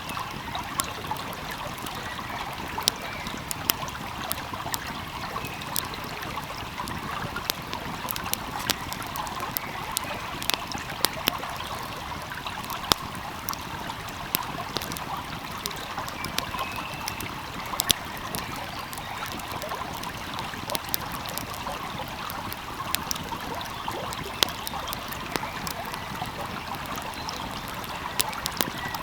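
Steady rush of a flowing stream, with a wood fire crackling over it in frequent short, sharp pops.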